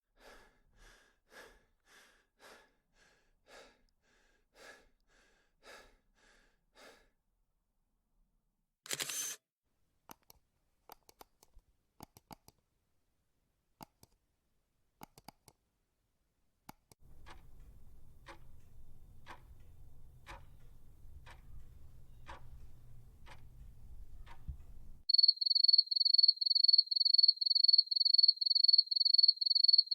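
A run of separate sound effects: faint evenly spaced pulses, then a sharp camera-shutter click about nine seconds in, scattered clicks and a low rumble with ticking. About five seconds from the end a loud, fast, steady chirping of crickets begins.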